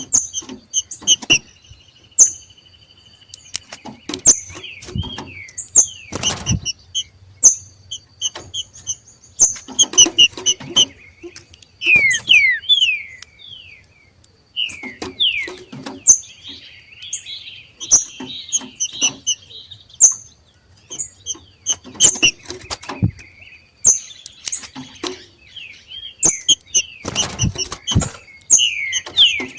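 Green-winged saltators (trinca-ferro) giving their excited 'macheado' calls: many short high chirps and quick downward-sliding notes, repeated throughout. Several low thumps break in, the biggest about six seconds in and near the end.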